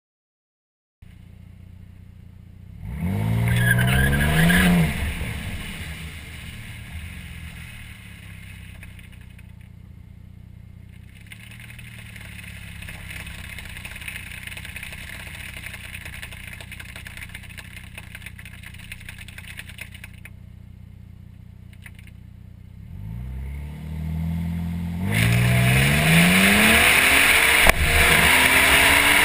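2011 Ford Flex EcoBoost's twin-turbo V6, heard from beneath the car beside the exhaust pipe. The engine revs up briefly about three seconds in, runs steadily for a long stretch, then from about twenty-three seconds its revs climb into a loud full-throttle launch that lasts to the end.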